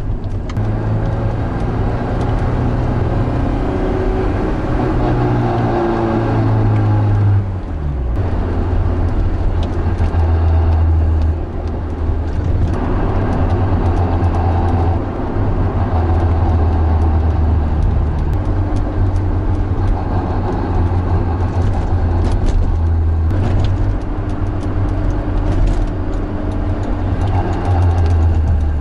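Honda S2000's engine running as the car is driven. The note holds steady with small step changes in pitch and falls sharply about seven seconds in.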